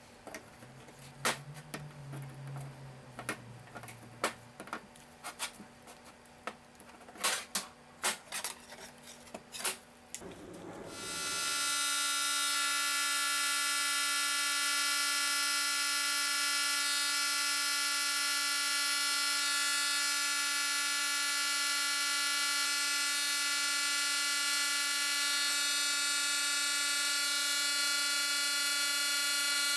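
A series of light clicks and knocks, as of metal parts and tools being handled, then, about eleven seconds in, a small electric power tool starts up and runs at a steady speed with an even whine.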